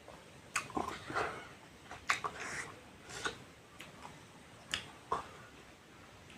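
A person eating close to the microphone: chewing, with scattered sharp mouth clicks and short smacks about a second apart.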